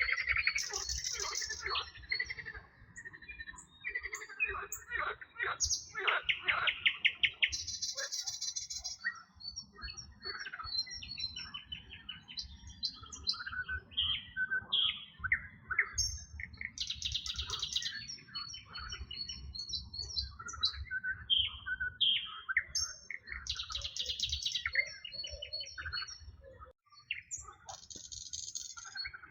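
Several songbirds singing together: a dense mix of chirps, whistled notes and trills, with a high trilled phrase recurring every several seconds, over a low rumble.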